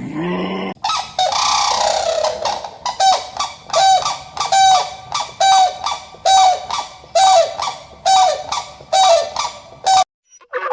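An animal's call: a breathy wheeze-like opening followed by a rhythmic series of about ten loud honks, each falling slightly in pitch.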